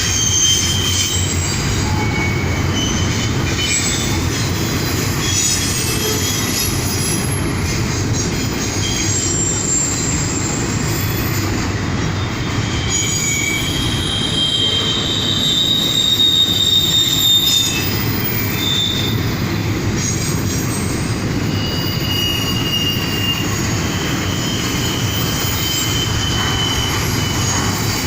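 Cars of a CSX intermodal freight train rolling past with a steady low rumble, with high-pitched wheel squeal that comes and goes.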